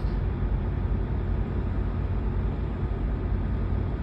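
Steady low rumble of riding, with wind buffeting the microphone and vehicle noise; no distinct events.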